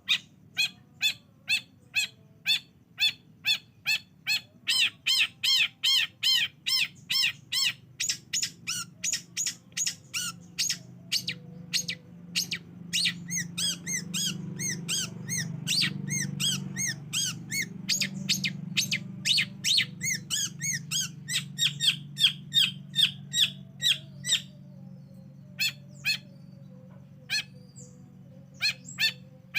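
Long-tailed shrike (cendet) singing a fast run of short, sharp, repeated notes, about three a second, that thins out to scattered notes near the end. A low hum rises and falls underneath, strongest midway.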